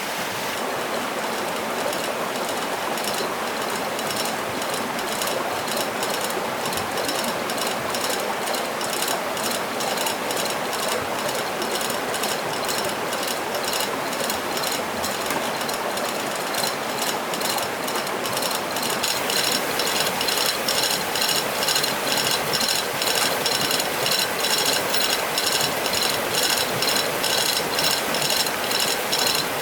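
Rapid, evenly spaced mechanical clicking, several clicks a second, over the steady rush of stream water. The clicking grows louder and sharper about two-thirds of the way in.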